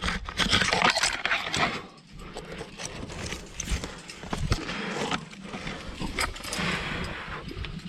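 A climber working up a rock chimney: long swells of scraping and rustling against the rock, mixed with hard breathing, and scattered sharp clicks of gear.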